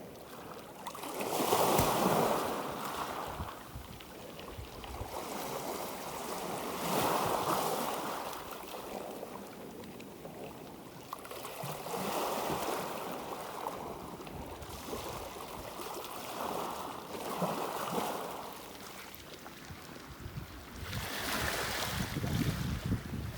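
Small, gentle sea waves washing in, one swell of surf every five seconds or so.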